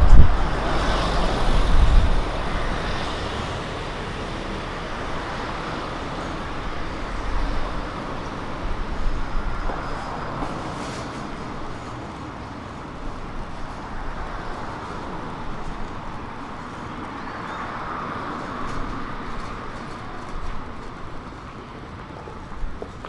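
Road traffic on a city street: a vehicle passes close by at the start with a low rumble, the loudest moment. A steady background of traffic noise follows, and another vehicle swells up and passes about three-quarters of the way through.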